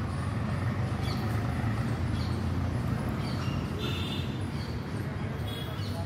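Birds chirping, with short high chirps and quick sliding notes and a brief buzzy call about four seconds in, over a steady low rumble.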